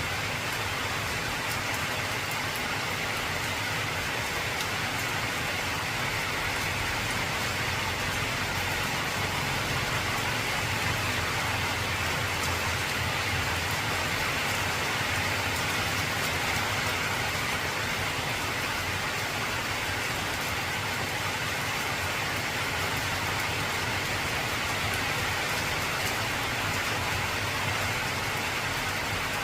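Heavy rain falling steadily on an old corrugated zinc (tin) roof: a dense, even patter with no break.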